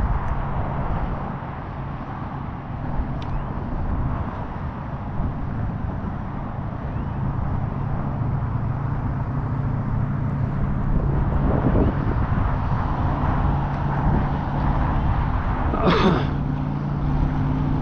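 A boat motor running steadily, with wind noise on the microphone. Near the end a brief sound sweeps down in pitch.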